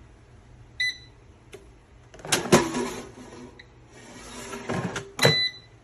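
Air fryer control panel beeping: one short beep about a second in and another near the end. Between them come two stretches of clattering and rustling as the appliance is handled, the loudest a sharp clatter about two and a half seconds in.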